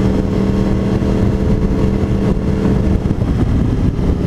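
Yamaha R1 sport bike's inline-four engine running at a steady speed while riding, a constant drone under heavy wind rumble on the bike-mounted microphone.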